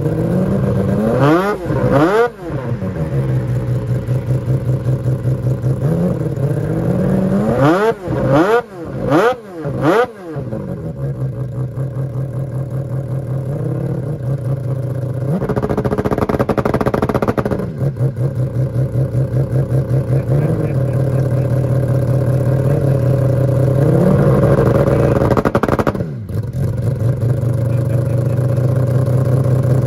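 Mazda RX-7 race car's rotary engine idling while parked, with sharp throttle blips: two quick revs about two seconds in, three more around eight to ten seconds, a longer held rev around sixteen seconds and another rise near the end that drops away suddenly.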